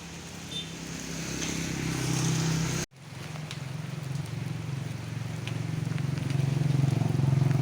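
Rain falling, an even hiss with a few faint drip ticks, over a steady low hum. The sound cuts off abruptly about three seconds in, then resumes and slowly grows louder.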